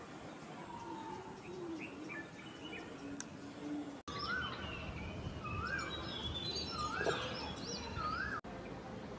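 Wild birds calling over outdoor background noise. From about four seconds in, one bird repeats a short rising-then-falling whistled note several times, with higher chirps around it. The sound changes abruptly at about four seconds in and again near the end.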